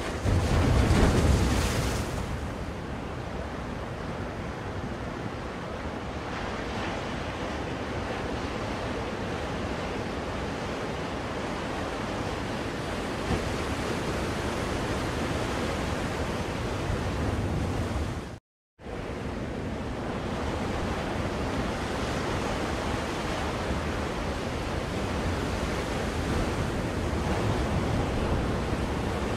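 Ocean surf: waves washing steadily on a shore, with a louder wave breaking in the first couple of seconds. About two-thirds of the way through, the sound cuts out completely for half a second, then resumes.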